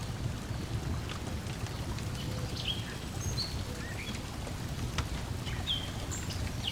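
Lakeside nature ambience: a steady low rush of lake water lapping against the shore, the scattered pops and crackles of a wood fire, and short bird chirps several times.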